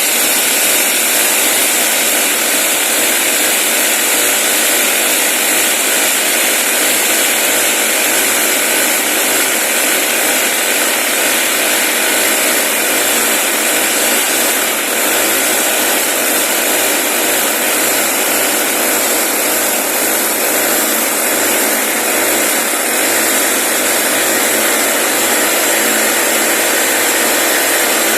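A power tool running steadily and loudly without a break, a continuous noisy whirr.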